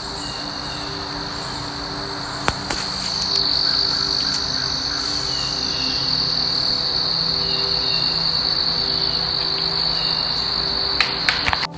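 Insect chorus, a continuous high trill that holds steady, with a few short, faint falling chirps over it. Several sharp clicks near the end.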